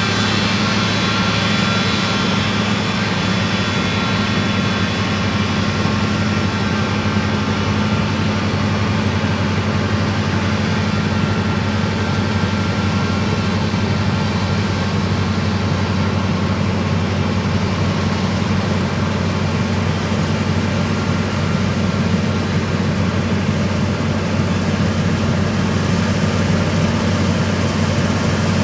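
Combine harvester running steadily with its threshing gear engaged as it moves off to harvest: a steady, unchanging engine and machinery drone.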